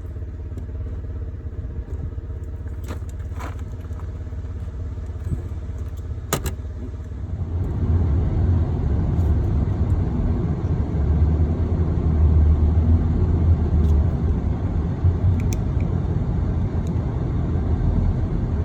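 Road and engine rumble inside a moving vehicle, growing louder about a third of the way in, with a few sharp clicks early on.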